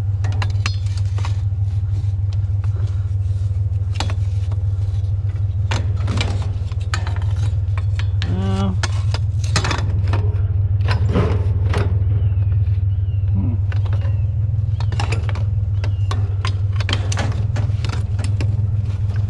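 Truck engine idling steadily with a low hum, under a string of irregular metal clanks and knocks as scrap metal chairs are handled and stacked in the truck.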